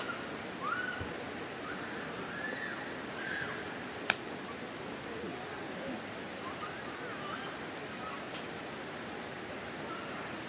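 Wood campfire burning with a steady hiss and light crackle, and one sharp pop about four seconds in.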